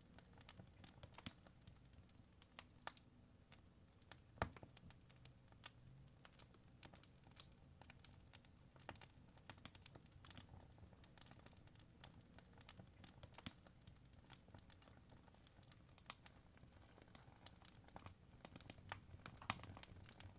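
Fireplace crackling faintly: scattered sharp pops at irregular intervals, with one louder pop about four seconds in.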